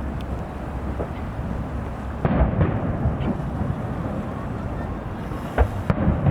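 Fireworks shells bursting across the bay: several sharp booms over a steady low rumble, a cluster about two seconds in and another pair near the end.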